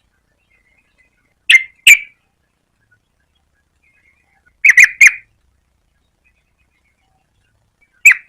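Yellow-vented bulbul calling in short, sharp notes: a pair about a second and a half in, a quick run of three around five seconds, and one more near the end.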